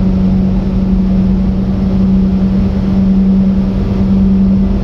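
Japanese mini truck driving, heard from inside the small cab: a steady, unchanging engine hum over constant road and tyre noise from its bias-ply UTV tyres.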